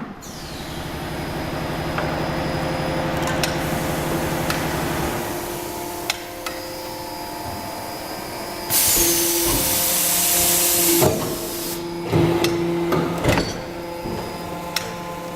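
Four-station rotor aluminium die-casting machine cycling: a steady machine hum, a loud hiss lasting about two seconds past the middle, then several knocks.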